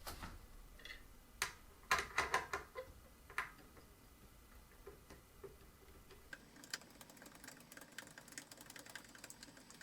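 Screws being worked loose from a ceiling fan's switch housing: a few sharp clicks and knocks of tool and metal, then a run of fast, light ticking.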